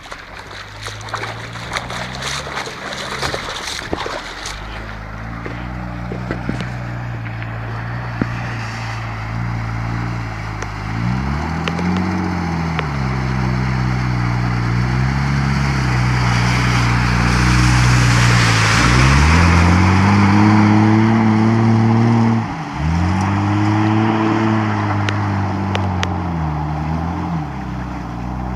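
Car engine revving up and down repeatedly while drifting on a wet surface, over the hiss of spinning tyres and water spray that grows louder to a peak about two-thirds of the way through. There is a brief drop in engine sound shortly after the peak before it revs again.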